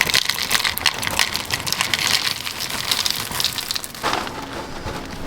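Dry cereal being poured into a bowl: a dense, crackly rattle of many small pieces.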